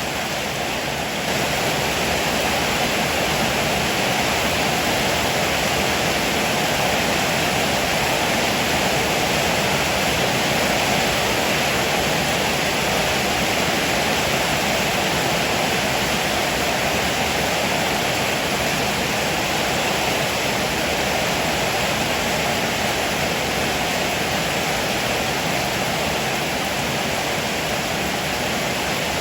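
Heavy rain pouring down onto a roof, a dense, steady hiss that grows a little louder about a second in.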